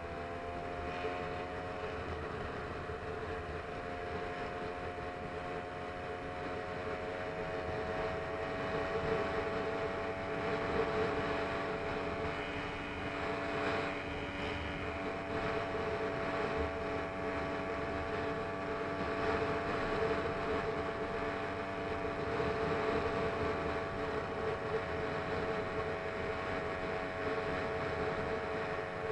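Small engine of a motorized bicycle running under steady throttle, its pitch rising slightly at the start and then holding steady.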